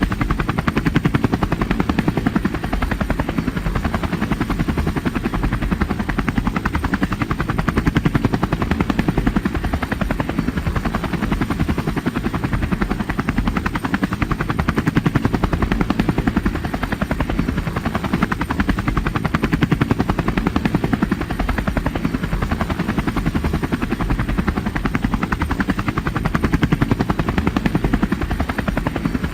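Helicopter rotor running steadily, its blades giving a rapid, even beat.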